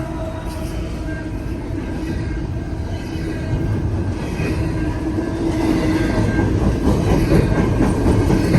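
Long intermodal freight train rolling past: a steady rumble of cars and wheels on the rails, with a faint steady squeal that grows stronger in the second half.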